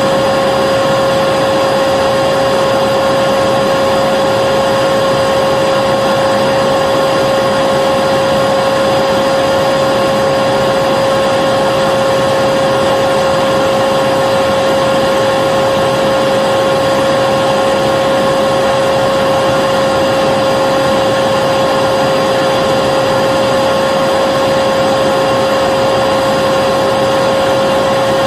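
Vacuum cleaner running continuously at a constant speed: a steady high motor whine over the rush of air, with no change in pitch or level.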